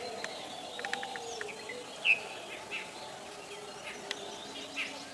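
Birds calling in short, separate chirps over a steady background hum of outdoor sound, the loudest chirp about two seconds in.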